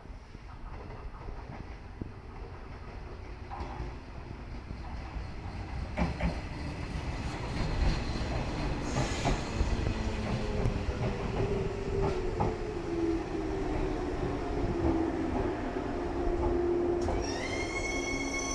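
JR 115-series electric train approaching and slowing into a station. It grows louder, with wheels clacking over rail joints, then a falling whine as it slows. Near the end the brakes begin a shrill, many-toned squeal.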